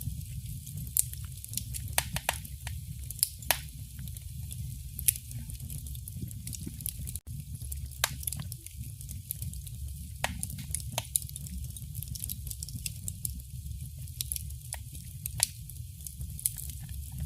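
Wood fire burning in a fireplace: irregular sharp crackles and pops over a low, steady rumble of the flames, with a momentary drop-out about seven seconds in.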